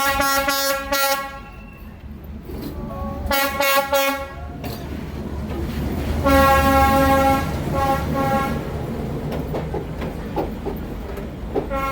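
A train's horn sounds three blasts over the low rumble of the passing train. The first and second blasts last about a second and a half each. The third, starting about six seconds in, is the longest and loudest, at about two seconds.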